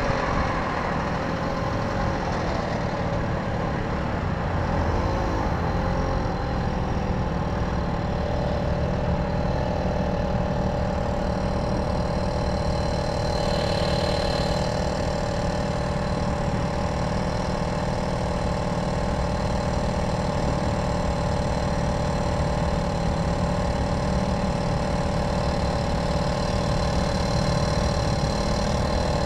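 Tomos moped's two-stroke engine running at a steady, even speed.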